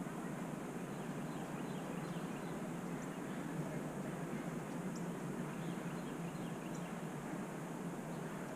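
Faint, scattered chirps of small birds over a steady outdoor background hiss, with a few short high-pitched notes.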